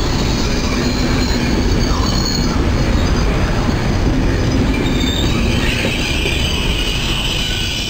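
Regional passenger coaches rolling past close by: a steady rumble of wheels on the rails, with a high metallic wheel squeal coming in about five and a half seconds in.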